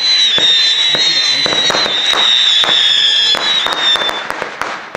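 Fireworks display: a loud, steady, high-pitched whistle from a whistling firework that lasts about four seconds and fades out near the end. A continuous spatter of sharp cracks and pops runs under it.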